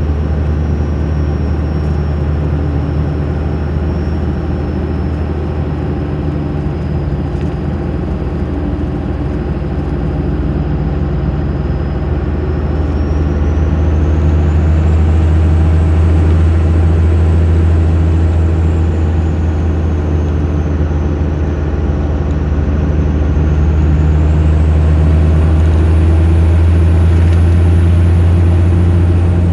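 1996 Cummins 12-valve 5.9 L straight-six diesel with an HX35 turbocharger, 4-inch straight-pipe exhaust and an open high-flow air filter, pulling under way. The turbo whistles above the low exhaust drone, its pitch climbing about halfway through and again near the end as the engine comes on boost, easing back between and falling away at the very end.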